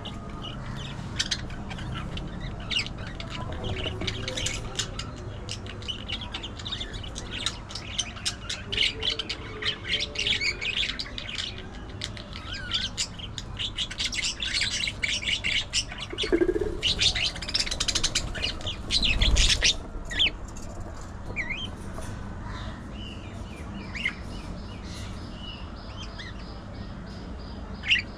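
Budgerigars chattering and chirping in fast strings of short high notes, busiest in the middle and thinning out to a few single calls near the end.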